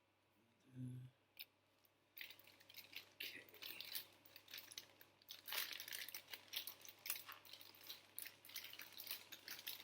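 Thin plastic parts bag from a model car kit being crinkled and pulled open, a fast irregular crackle that starts about two seconds in. A short low sound comes just before it.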